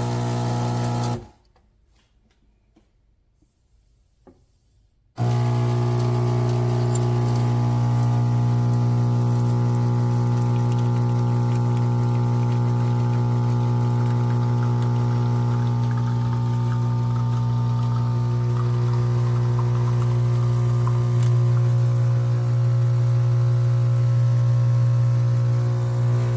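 MIROX espresso machine running with a loud, steady electric hum. It cuts out about a second in and starts again about four seconds later.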